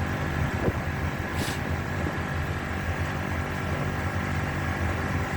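Packaged air-conditioning unit running with a steady low machine hum, its condenser fan turning. A short hiss comes about a second and a half in.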